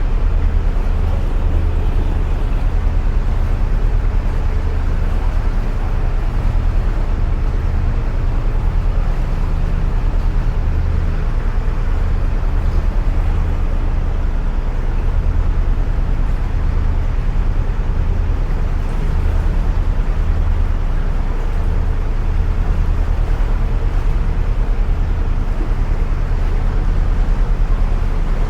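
Narrowboat engine running steadily at cruising speed, a low throbbing drone echoing in the confined tunnel.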